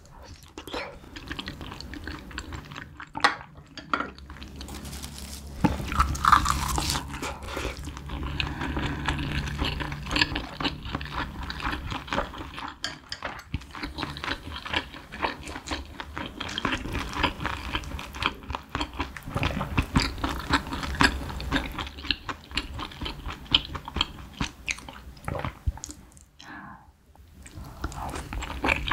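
Close-miked chewing of a mouthful of spicy braised cutlassfish and rice: a dense run of small, quick clicks and smacks, with a brief lull near the end before the next bite.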